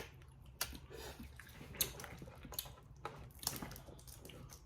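Close-miked eating of boiled crawfish: chewing and wet mouth sounds with several irregular sharp clicks from handling and breaking the shells.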